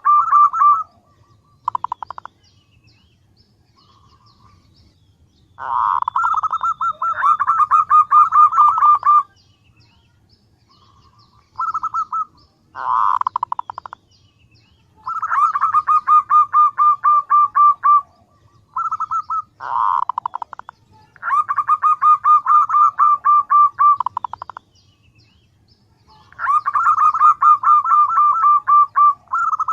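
Female zebra dove calling in repeated runs of fast, evenly pulsed notes. Each run lasts from under a second to about three seconds, with short pauses between, as a lure call to attract males.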